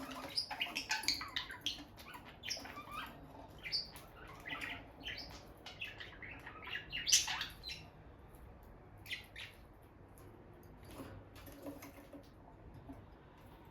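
Peach-faced lovebirds chirping in quick, high bursts, busiest in the first half with one loud chirp about seven seconds in, then only a few scattered chirps.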